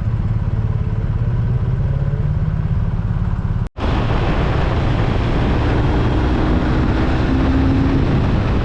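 BMW R1250RT's boxer-twin engine running steadily under way, with wind noise over the microphone. The sound cuts out for an instant a little under four seconds in, and after that the wind noise is louder.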